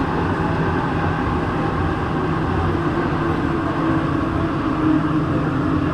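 Santiago Metro NS-16 train running between stations, heard from inside the car: a steady running rumble, with a humming tone that comes up about halfway through.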